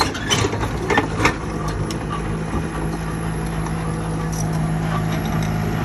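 Heavy diesel engine running steadily at a low, even pitch. A few sharp metallic clanks and knocks come in the first second or so.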